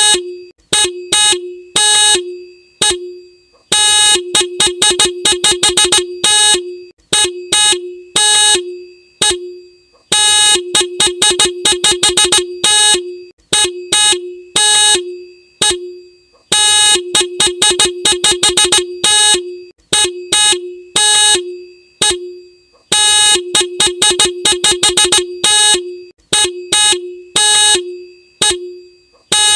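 Motorcycle horn beeped over and over: quick series of short honks on one steady note, now and then held longer, in groups that repeat every few seconds.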